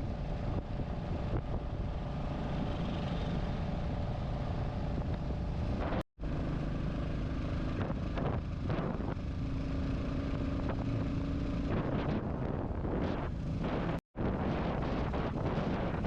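Royal Enfield Classic 350's single-cylinder engine running on the move, with wind noise on the microphone. The sound is steady, broken twice by a brief dropout.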